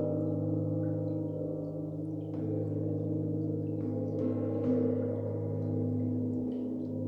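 A struck resonant metal instrument ringing with long, layered sustained tones, the sound-healing drone of a harmonization session, struck again lightly about two and a half, four and nearly five seconds in.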